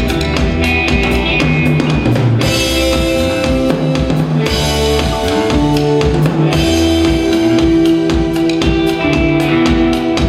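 Live rock band playing an instrumental passage between sung verses: a drum kit keeps a steady beat with bass drum and snare under held bass and melody notes, and cymbals wash in about two seconds in and again past the middle.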